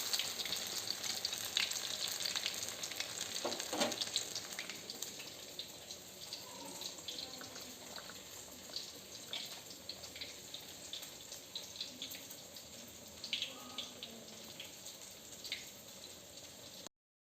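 Flour-battered tempeh frying in hot oil: a steady crackling sizzle with scattered pops, gradually growing quieter, cut off abruptly near the end.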